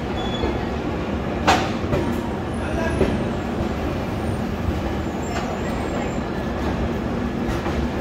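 Express passenger train pulling out of a station at low speed: a steady low rumble of the coaches rolling, with a sharp clank about a second and a half in and a few fainter knocks after it.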